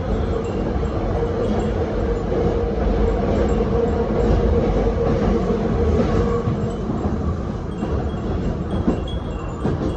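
Nose Electric Railway 7200 series train running, heard from inside the car: steady rumble of wheels on track with a hum that dies away about six and a half seconds in. The wind chimes (furin) hung in the car ring faintly now and then.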